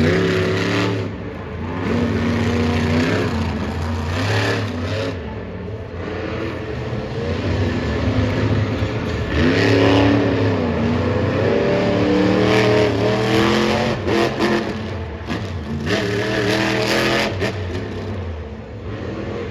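Supercharged monster truck engines revving hard, the pitch climbing and dropping again and again.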